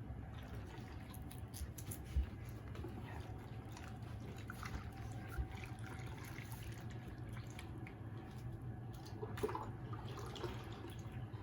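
Faint water sounds: scattered small drips and splashes over a steady low hum.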